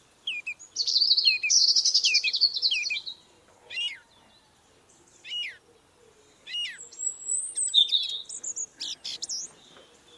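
Bird calls: a few short falling chirps, then a buzzy warbling phrase from about a second in that lasts about two seconds. After it come scattered sharp downward-sweeping calls and high whistles.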